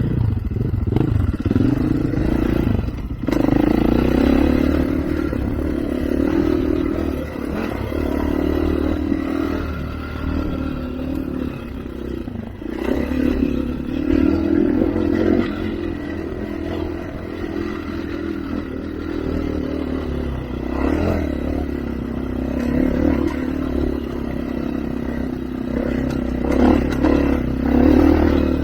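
Off-road vehicle engine running under changing throttle, its note swelling and easing every few seconds, with clattering and scraping from the machine working over rough trail.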